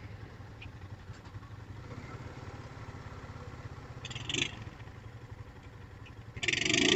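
ATV engine idling low and steady. About four seconds in there is a short hiss, and near the end a louder rushing noise comes in.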